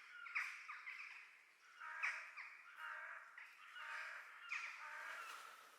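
A flock of crows cawing, many short harsh calls repeating and overlapping each other.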